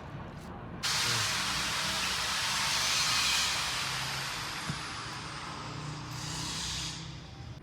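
A pressurised jet hissing loudly and steadily, starting suddenly about a second in and dying away near the end.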